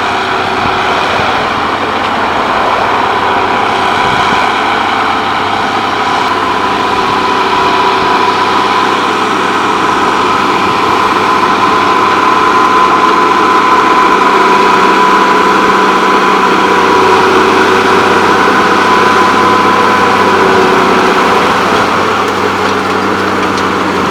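Case Magnum 7210 tractor's diesel engine running steadily while pulling a power harrow, with a thin steady whine that grows louder toward the middle.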